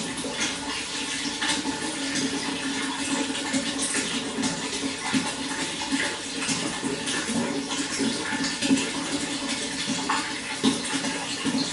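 Running water flowing steadily, a continuous rush with small splashes throughout.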